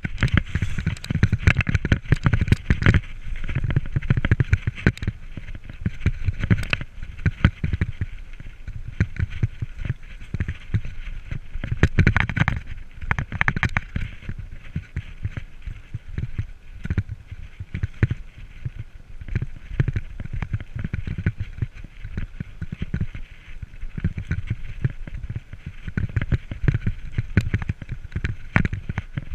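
Mountain bike riding over rough ground: a constant clatter of knocks and rattles from the bike, with a low rumble from wind on the microphone.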